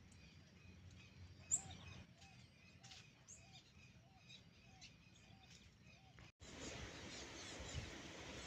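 Small birds chirping faintly, with one sharp, louder chirp about a second and a half in and a short, low note repeating about twice a second. About six seconds in the sound cuts, and a louder steady hiss follows with chirps over it.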